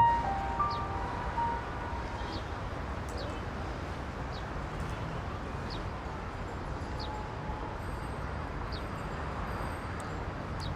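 Urban street ambience: a steady hum of road traffic, with a small bird chirping short high notes about once a second.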